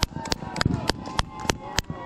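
Fireworks popping: a fast, irregular series of sharp cracks, several a second.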